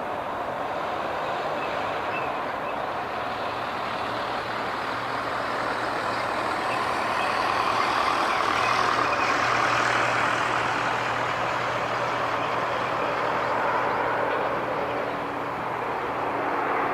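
Airliner jet engines: a steady rushing noise with a faint hum that swells to its loudest about halfway through and then eases off.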